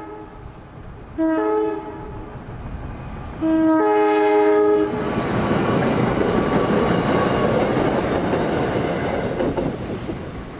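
A passenger train sounding its multi-tone horn in blasts: one ending just at the start, a short one about a second in, and a longer one around the fourth second. The train then rolls past with steady wheel and rail noise that slowly fades near the end.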